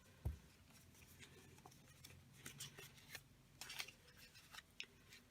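Faint, scattered rustles and light clicks of paper being handled, over near-silent room tone, with a soft thump just after the start.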